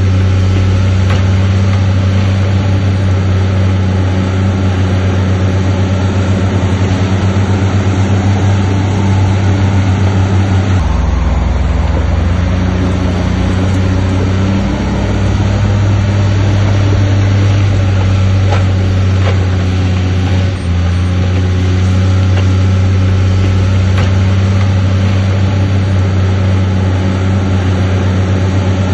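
Diesel engine of heavy earthmoving equipment running steadily, its pitch dropping about eleven seconds in and climbing back a few seconds later.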